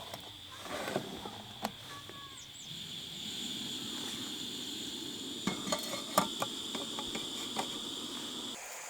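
Metal cookware and utensils clinking and knocking, with a cluster of sharp clinks about five to seven seconds in, over a steady hiss and a thin high whine that cut off suddenly near the end.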